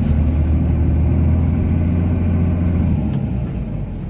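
Cummins straight-six turbodiesel of a Ram pickup running under load while plowing snow, heard from inside the cab as a steady low hum that eases off about three seconds in.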